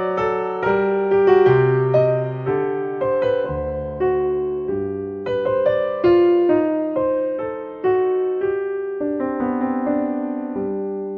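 Background music: a slow piano melody over held bass notes, each note struck and dying away.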